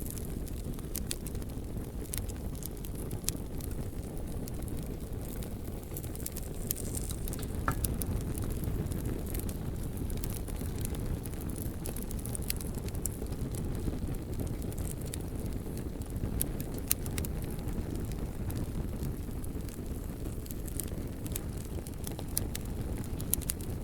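Bonfire burning: a steady low rumble of flames with scattered sharp crackles and pops from the burning logs, a few of them louder than the rest.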